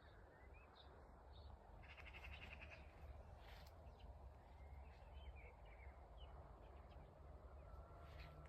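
Faint scattered chirps of small birds over a low background rumble, with a short buzzy trill about two seconds in.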